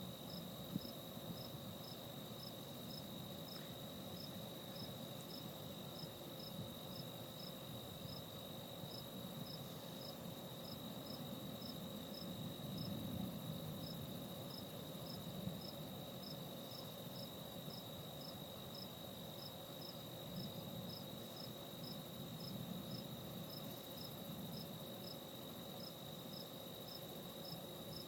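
Crickets chirping: a steady high trill with a second regular chirp a little over twice a second, over a faint low rumble.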